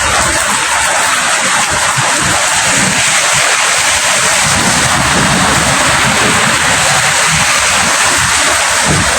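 Steady, heavy rainfall: a dense, even hiss of raindrops with a low, fluttering rumble underneath.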